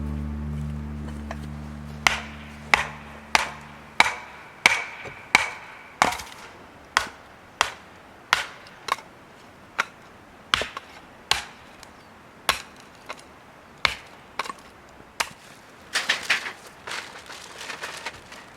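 Firewood being chopped: a steady series of sharp wooden strikes, roughly one every two-thirds of a second, with a burst of splintering and cracking near the end as the wood breaks apart.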